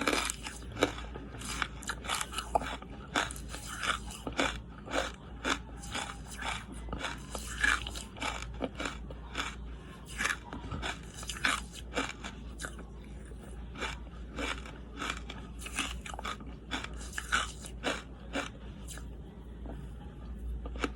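Charcoal being bitten and chewed close to the microphone: a run of irregular crisp crunches, several a second, over a steady low hum.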